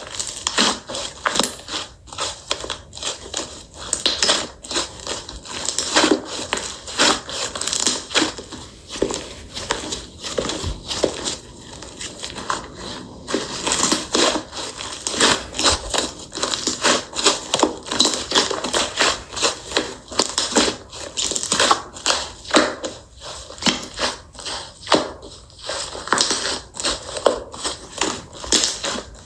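Slime being squished and pressed by hand, a dense, continuous run of crackling, popping clicks.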